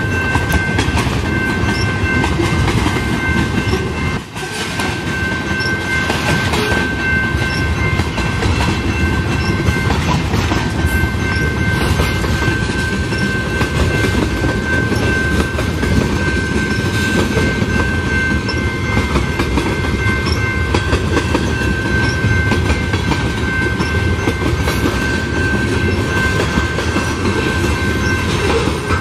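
Canadian Pacific freight train's tank cars and covered hoppers rolling past, with wheels clacking over the rail joints, and a steady high ringing tone over it. The loudness dips briefly about four seconds in.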